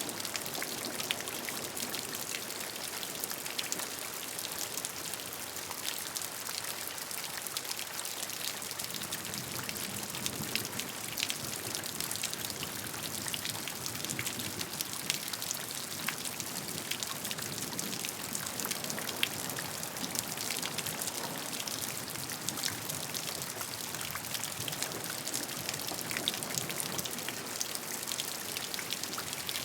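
Steady rain falling, with many individual drops pattering close by over a constant hiss.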